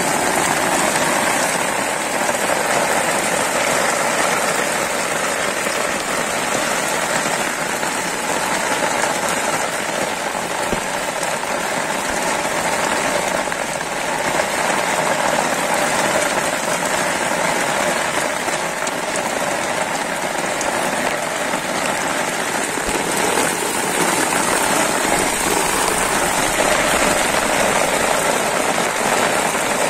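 Steady rain falling onto open floodwater, an even, continuous hiss of drops striking the water's surface.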